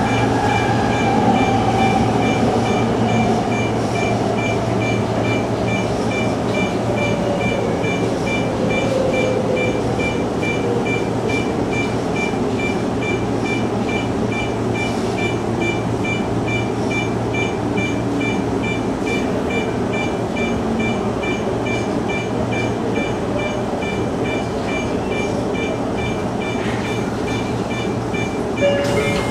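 Electric commuter train running, heard from the driver's cab: steady running noise with a motor whine that falls in pitch over the first ten seconds or so as the train slows. A high beep repeats about twice a second throughout.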